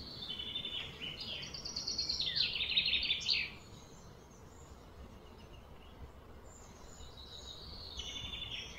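A songbird singing in quick series of repeated notes, loudest over the first three and a half seconds, with a shorter phrase near the end.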